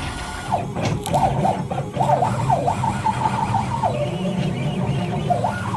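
CNC router's stepper motors whining as the drag knife cuts foam board, the pitch sliding quickly up and down as the gantry speeds up, slows and changes direction, over a steady low hum.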